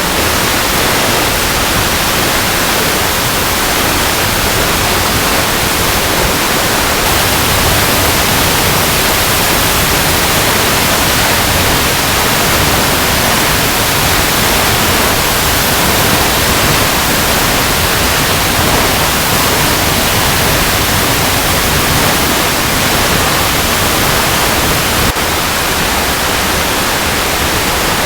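Waterfall cascading over rocks: a steady, even rush of falling water with no breaks or changes in level.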